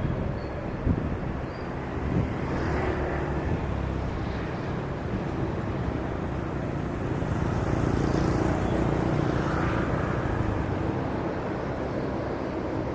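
Distant jet airliner engine rumble, swelling to a peak about eight seconds in, over steady road-traffic noise.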